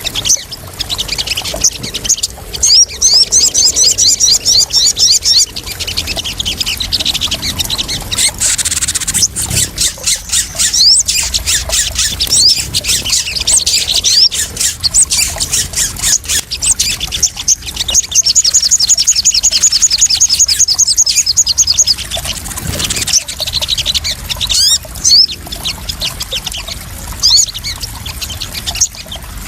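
Crimson sunbirds (sogon) calling in high, rapid chips and fast trills, over water trickling and splashing. The longest runs of trill come a few seconds in and again past the middle.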